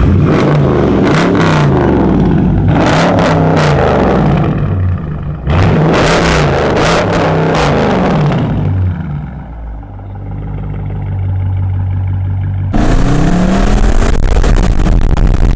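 Car engine with a straight-piped exhaust, revved up and down repeatedly with sharp cracks in between. It drops to a steadier, lower note for a few seconds, then starts a loud rev with rising pitch about three seconds before the end.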